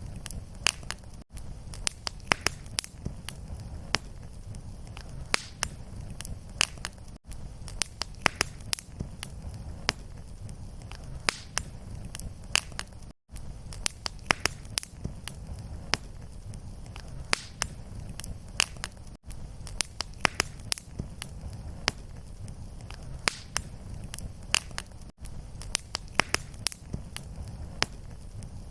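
Wood fire in a fireplace crackling and popping, with many sharp snaps over a steady low rumble. The sound cuts out very briefly about every six seconds.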